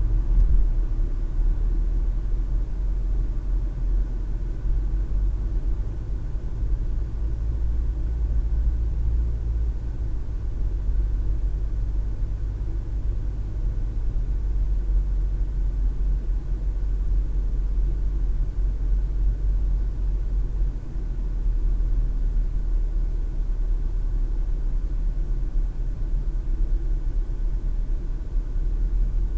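Steady low rumble of road and engine noise inside a moving car's cabin, as picked up by a windshield dash cam.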